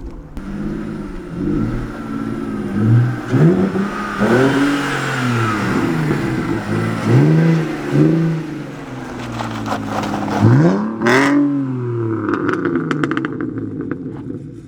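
Car engine revved in repeated throttle blips, its pitch rising and falling about once a second, with a single sharp crack about eleven seconds in.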